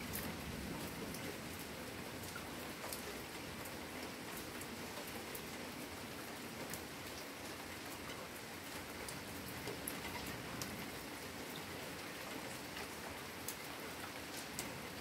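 Steady rain falling, with scattered drops striking close by as sharp ticks.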